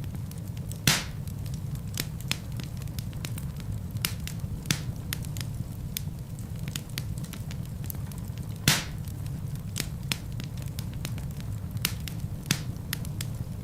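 Log fire crackling in a fireplace: a steady low rumble of flames with frequent small crackles, and two loud pops of the burning wood, one about a second in and another some eight seconds later.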